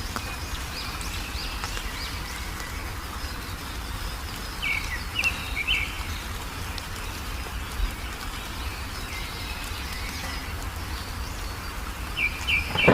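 Wild songbirds chirping, with short bursts of quick sharp notes about a third of the way in and again near the end, and fainter high twittering throughout. A steady low rumble sits underneath.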